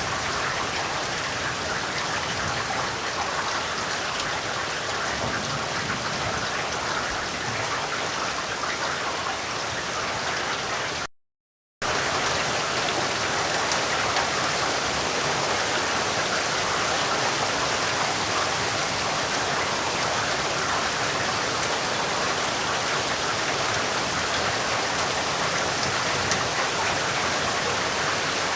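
Steady rain falling on surfaces, an even hiss of drops. About eleven seconds in it cuts out to silence for under a second, then comes back slightly louder, as at a splice between two recordings.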